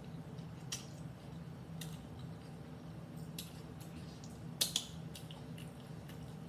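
Mouth sounds of chewing a crunchy hard-shell taco: scattered sharp crunches and clicks, the loudest a little past halfway, over a steady low hum.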